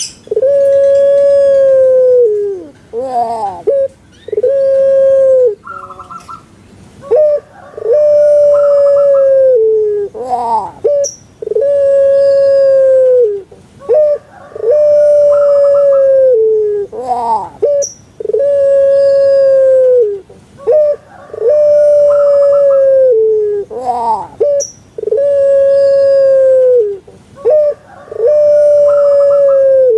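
Puter pelung, the long-voiced Javanese strain of Barbary dove, cooing over and over. Each call is a short rising 'kuk-geruk' followed by a long held 'kwok' coo that dips at the end, repeating about every three seconds.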